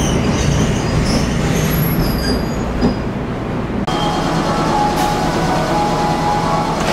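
Kotoden 1200-series electric car (ex-Keikyu 700) heard from inside while running: a steady wheel and motor rumble with faint high wheel squeals, air conditioning on. About four seconds in it cuts abruptly to the car standing, with a steady hum of several held tones and a sharp click a second later.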